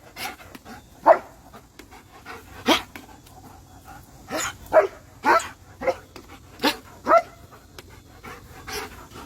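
A dog barking in short, sharp barks, about ten of them at uneven intervals.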